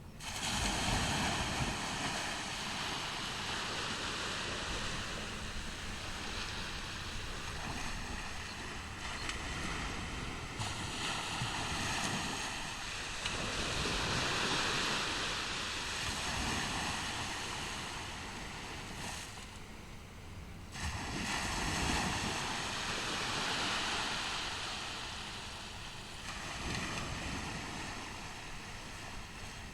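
Ocean surf breaking on a tropical beach, the wash of the waves swelling and easing every several seconds.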